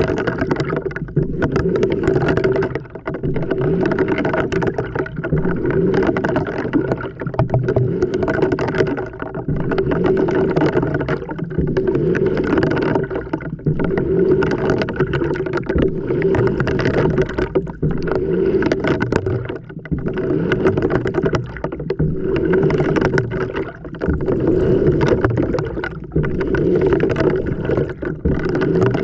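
Water sloshing and churning inside a washing machine drum, heard from a camera tumbling with the load, over a steady hum. Short lulls come every few seconds.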